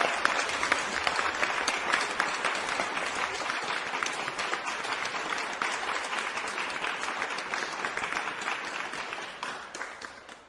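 Crowd applauding: a dense patter of many hands clapping, holding steady, then fading out near the end.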